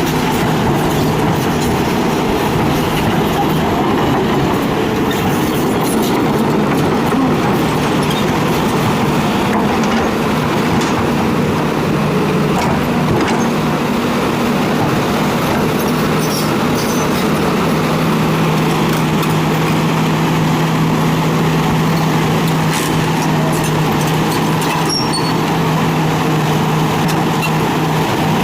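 Hitachi excavator's diesel engine running steadily under work, with a steady droning hum that grows stronger in the second half and a few scattered light knocks.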